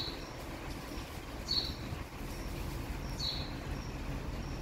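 A small bird gives a short, high chirp three times, evenly spaced about every second and a half.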